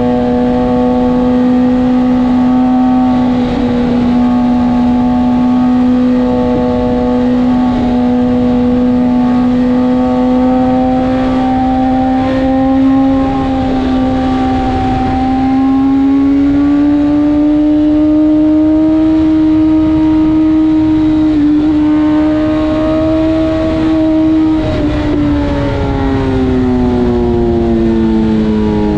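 BMW S1000RR inline-four engine running at steady riding revs with a rush of wind underneath. The pitch climbs a little about halfway through, holds, then falls away over the last few seconds as the revs drop.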